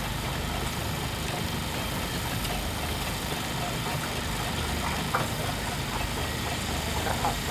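A steady, low engine rumble, like a vehicle idling, with no clear beat or change.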